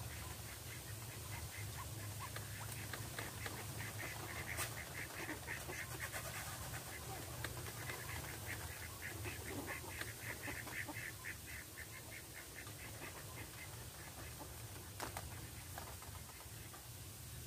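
White-breasted waterhen calling: a fast run of short repeated notes that starts a few seconds in and stops about two-thirds of the way through, over a steady low hum.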